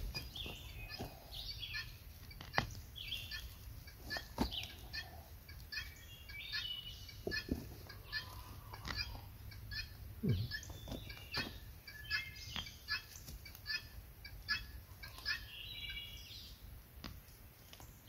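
Birds chirping in short, repeated calls, with scattered faint clicks and knocks.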